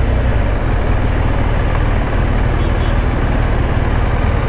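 BMW R1200GS boxer-twin motorcycle engine running at low speed, heard from the rider's position as a steady low rumble mixed with wind and road noise.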